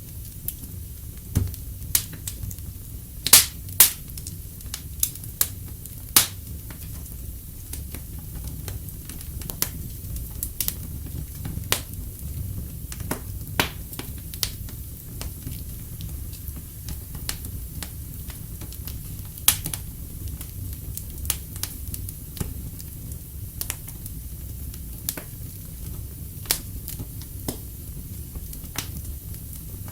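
Wood fire crackling in a fireplace: irregular sharp pops and snaps over a steady low rumble, with the loudest pops about three and a half, six and nineteen and a half seconds in.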